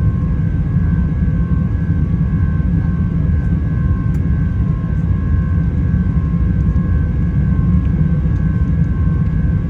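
Steady jet cabin noise inside an Airbus A380-800: a loud low rumble of airflow and its Rolls-Royce Trent 900 engines, with two steady whining tones above it.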